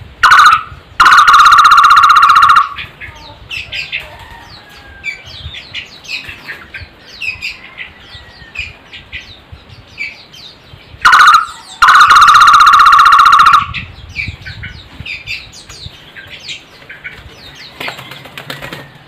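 Takur tohtor (flame-fronted barbet) calling loudly and close: a short note, then a fast pulsed trill of about two seconds. The call comes twice, near the start and again about 11 s later. Other small birds chirp faintly in the background.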